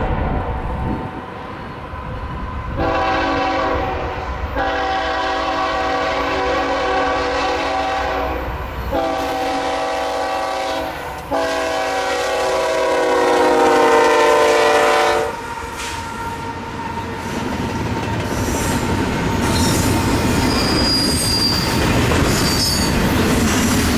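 Freight locomotive's air horn sounding a series of blasts, the last one held longest, as the train approaches. The locomotive then passes, and the rumble and clatter of the train's cars follow, with faint wheel squeal near the end.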